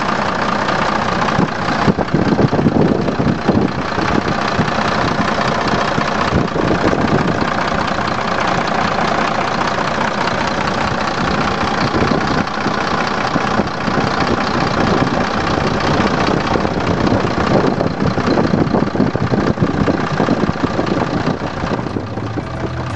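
Mercedes-Benz Atego 2425 truck's six-cylinder turbodiesel idling steadily, heard up close under the tilted cab.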